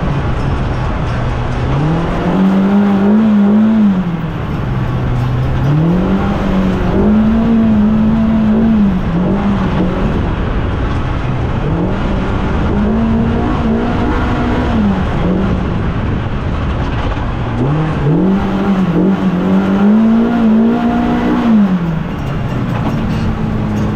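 Polaris RZR Pro R side-by-side's four-cylinder engine under throttle. It revs up, holds a high pitch for a few seconds, then drops back to a lower pitch, about four times over.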